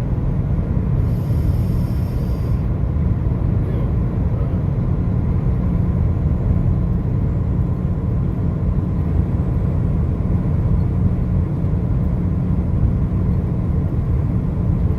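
Steady low rumble of a vehicle travelling along the highway: tyre and road noise with engine drone. A brief high hiss comes about a second in.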